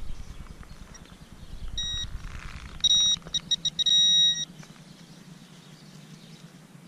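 Teknetics Tek-Point pulse-induction pinpointer beeping: a short beep, then quick pulses that run together into a solid tone, the pinpointer homing in on a coin buried in a dug plug of soil.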